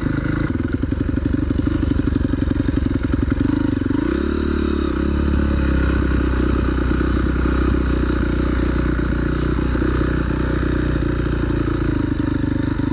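Honda CRF250R single-cylinder four-stroke engine running as the bike is ridden, with the revs rising about four seconds in and then holding steady.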